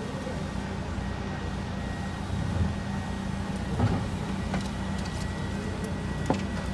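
A steady low mechanical hum, with a few sharp metallic clicks about four and six seconds in.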